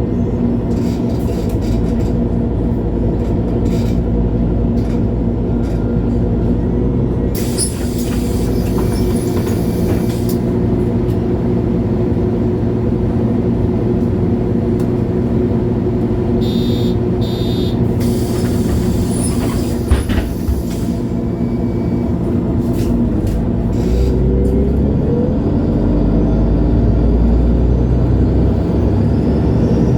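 MAN Lion's City G articulated bus's six-cylinder diesel engine running steadily, with two spells of hissing compressed air and a sharp click. Near the end the engine note rises as the bus speeds up.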